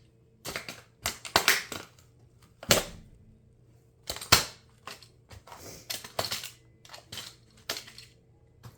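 Plastic of an RC toy car cracking and snapping as it is crushed underfoot in high heels: a run of sharp, irregular cracks, the loudest in the first half and smaller ones after.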